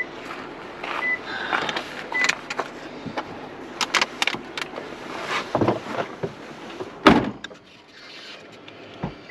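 Rummaging and knocking about inside a Jeep's cabin while a dog's vomit is cleaned up: many short clicks, rustles and bumps, a short high beep repeating about once a second at the start, and a loud thump about seven seconds in.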